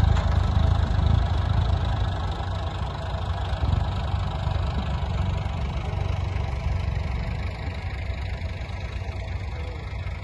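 A large engine running steadily with a deep rumble that slowly fades.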